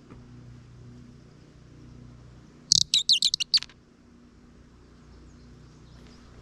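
Audubon bird caller twisted to make a quick burst of high, squeaky bird-like chirps lasting about a second, nearly three seconds in.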